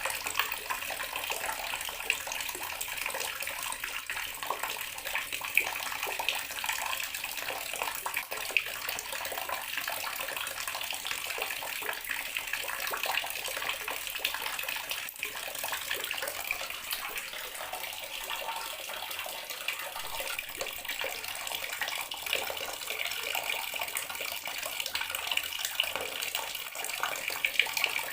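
Bathroom water tap running steadily, its stream splashing in an even, spattering hiss with no change in flow.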